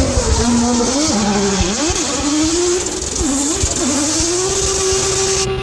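Racing car engine at full song, its note dropping and climbing again several times as it shifts and comes on and off the throttle, then holding one steady note near the end.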